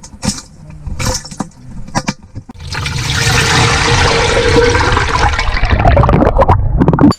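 A few clicks and knocks, then rushing, bubbling water that builds up a couple of seconds in, runs loud and cuts off suddenly at the end.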